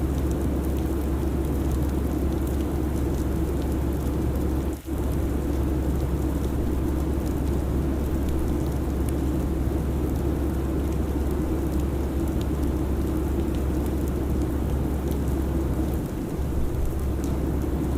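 Steady airliner cabin noise: a constant low rumble of engines and airflow with an even hiss over it. The sound drops out for a split second about five seconds in.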